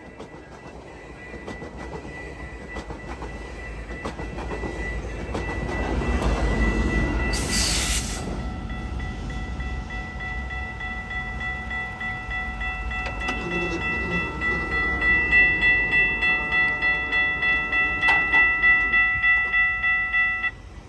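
A GO Transit train passing a level crossing, its wheels rumbling on the rails, while the crossing's warning bell keeps ringing. There is a brief hiss about 7 seconds in, the bell pulses about twice a second in the later part, and everything cuts off suddenly near the end.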